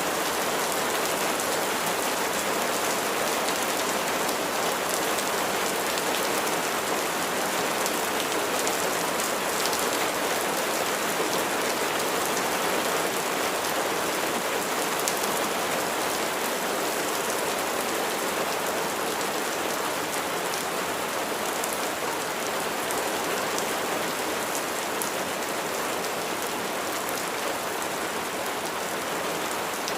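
Steady rain falling and pattering on a surface, an even hiss with countless small drop ticks.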